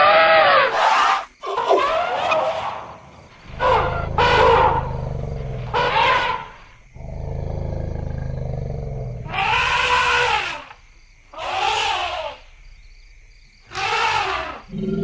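Elephants calling: about seven separate trumpeting calls, each rising and falling in pitch, with short pauses between them. A low steady rumbling noise lies under the calls in the middle stretch.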